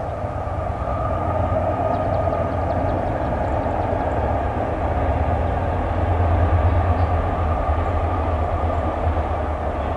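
A train rolling past in a steady, continuous rumble with a low drone underneath, swelling a little about six seconds in.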